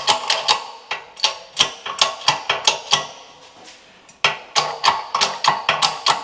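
Ratchet wrench clicking in quick runs as it turns the forcing screw of a wheel bearing press tool, with a pause of about a second in the middle.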